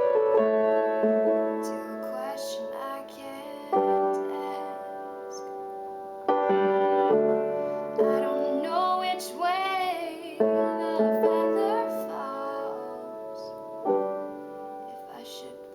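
Piano chords played slowly and sustained, with a woman's voice singing a held, wavering line in the middle, recorded on a camera's built-in microphone.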